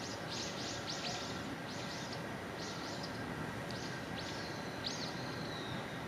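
Small birds chirping in quick runs of short, high calls, with a longer drawn-out whistle near the end, over a steady background hum.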